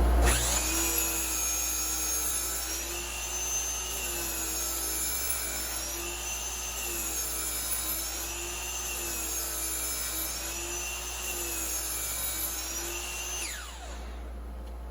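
DeWalt DWS779/780 sliding compound miter saw motor spinning up, then running with its whine dipping and recovering in pitch as it works through cuts. The motor winds down near the end, leaving the dust collector's steady hum.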